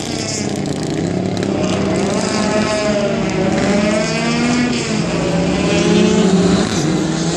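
Rally car engine revving hard, its pitch rising and falling several times as it accelerates and slows.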